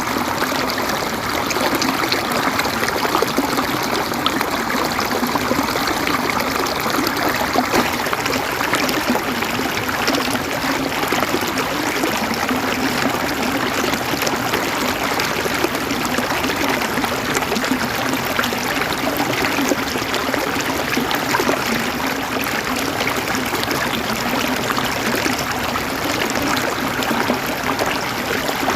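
River water flowing and gurgling over rocks, a steady, even rush.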